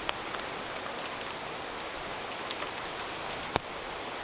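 Steady rain falling, with individual drops tapping close by now and then and one sharper tap about three and a half seconds in.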